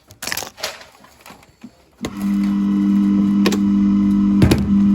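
A steady electric hum starts about two seconds in, with two sharp clicks over it, after a few faint clicks and taps.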